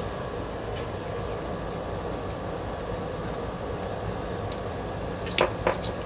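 Metal ceiling fan parts being handled during disassembly: two sharp clicks about five and a half seconds in, with a few faint ticks before them, over a steady background hum.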